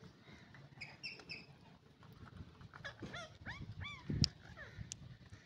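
Parrot calling in short squawks: a pair of brief calls about a second in, then a quick run of rising-and-falling calls around the middle. There is a loud thump a little after that.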